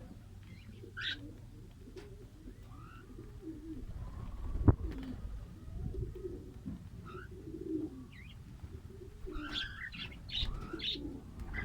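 Cage birds chirping, with short high chirps over low wavering calls throughout, and one sharp knock about halfway through.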